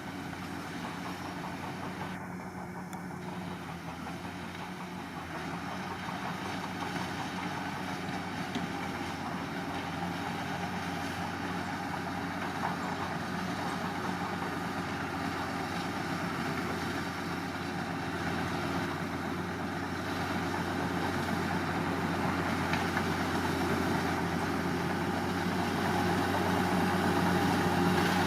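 Heavy diesel engine of a Komatsu D41P bulldozer running steadily, growing gradually louder.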